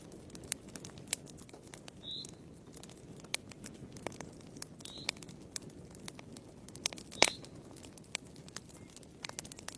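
Wood fire in a fireplace crackling: irregular sharp pops and snaps over a soft low rustle of the flames, with one louder pop about seven seconds in.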